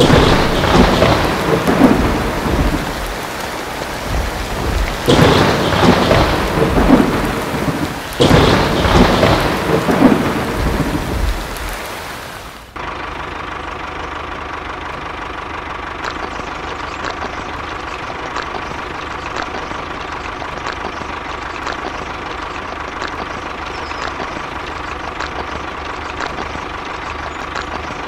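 Thunderstorm: steady rain with three loud rolls of thunder. About 13 seconds in it cuts suddenly to the steady running of a model tractor, a level hum with a light, even ticking.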